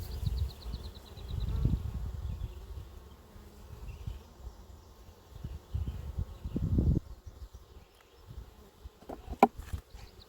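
Honeybees buzzing around an open hive during an inspection, the sound swelling and fading as bees fly close by, with a sharp click near the end.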